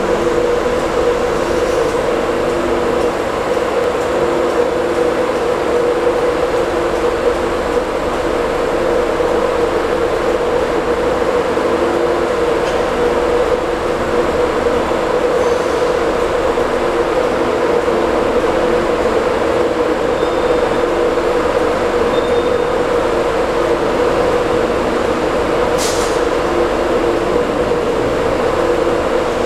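Steady rumble and hum of a class 91 electric train's coaches rolling slowly past on the next track, heard from inside a carriage through its window. A brief sharp hiss comes about 26 seconds in.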